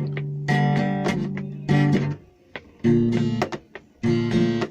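Guitar strumming chords with no singing, breaking off briefly about two seconds in before the strumming resumes.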